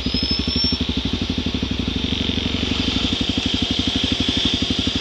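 Dirt-bike engine idling close by, an even, steady beat of about a dozen pulses a second.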